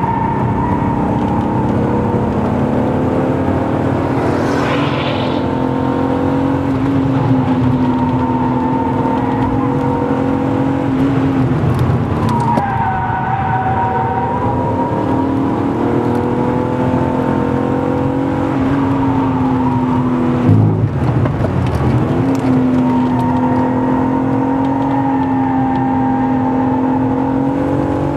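BMW E36 328i's 2.8-litre straight-six, fitted with an M50B25 intake manifold, heard from inside the cabin under hard track driving. The engine note holds high and climbs slowly, breaking about twelve seconds in and again about twenty seconds in as the revs change. A brief tyre squeal comes about four seconds in.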